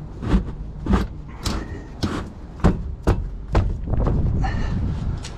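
Irregular series of sharp knocks and clunks, about seven in three and a half seconds, from metal parts and tools being worked on a rotary screw compressor during a service, followed by a short rougher scraping stretch near the end.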